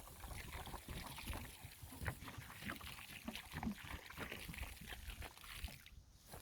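Water poured from a large plastic bottle onto the ground around a young tree, splashing and glugging irregularly.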